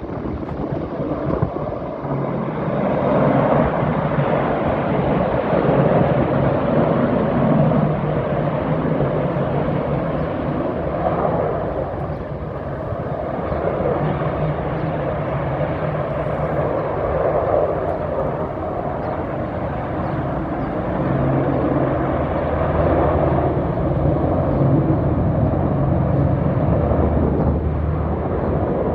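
A formation of AH-64 Apache and UH-60 Black Hawk military helicopters flying over, a steady low drone of rotors and turbine engines that swells and eases as they pass.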